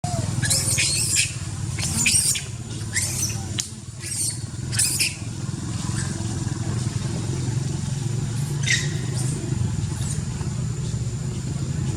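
Motor vehicle engine running steadily in traffic, with several short, sharp high-pitched sounds in the first five seconds and one more near nine seconds in.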